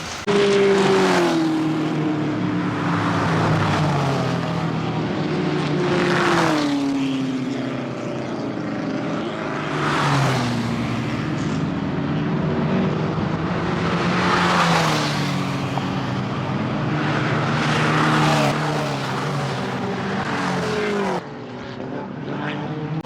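Classic race cars passing one after another on a circuit, roughly every four seconds. Each engine note swells and then drops in pitch as the car goes by.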